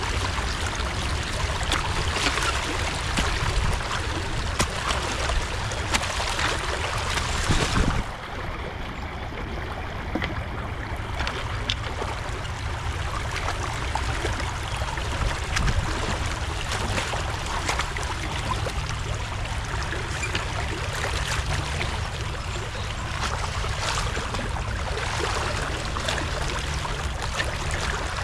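Creek water rushing and trickling through a beaver dam being torn open, with scattered sharp knocks and splashes. About eight seconds in the sound turns abruptly duller for a few seconds.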